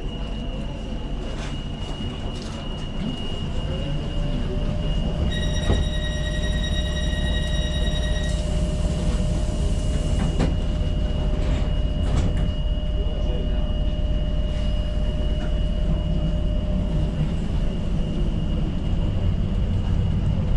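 Tyne & Wear Metro train running, its noise and motor tone rising a little about four seconds in and then holding steady, with a faint high whine throughout. A steady high-pitched tone sounds for about three seconds partway through.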